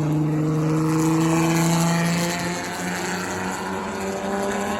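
Engines of enduro race cars running on the short oval, one car's steady engine note loudest and fading about two seconds in as another car's engine comes up.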